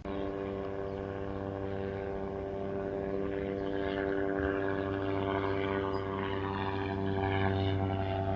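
Propeller aircraft flying by, a steady droning hum that grows slightly louder.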